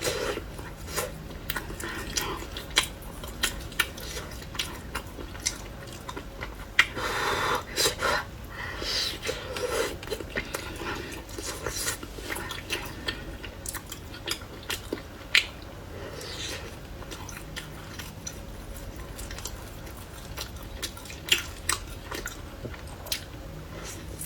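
Food-handling sounds at a counter: scattered light clicks and clinks of utensils and dishes, with a few short soft rustles.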